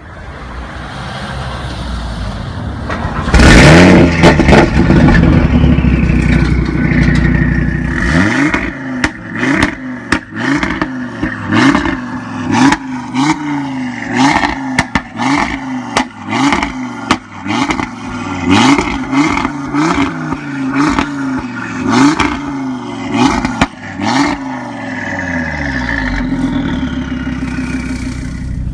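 Audi RS3 8V's turbocharged five-cylinder engine, breathing through a decat downpipe and sport exhaust, flares sharply about three and a half seconds in and then settles. From about eight seconds it is blipped again and again, each rev rising and falling with sharp cracks from the exhaust between them, before it settles to a steadier run near the end.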